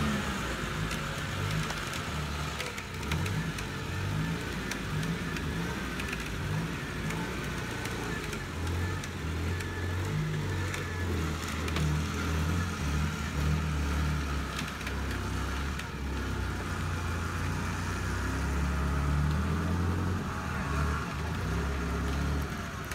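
A UAZ off-roader's engine running under load, its speed rising and falling as it works through deep mud and water.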